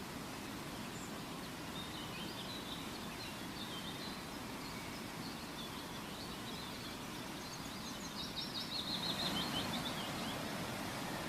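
Birds chirping over a steady background noise, with a rapid trill near the end as the background swells slightly.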